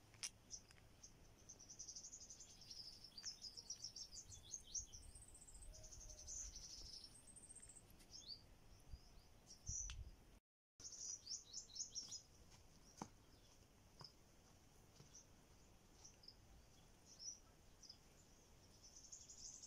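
Small birds chirping in quick, high twittering runs, faint and scattered, with the audio cutting out briefly about ten seconds in.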